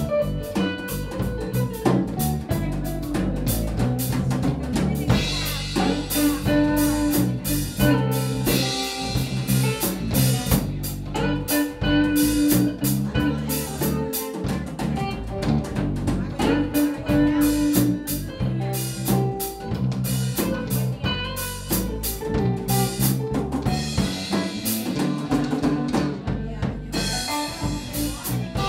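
Instrumental break of a band song: a drum kit keeps a steady beat over bass and guitar, with no singing.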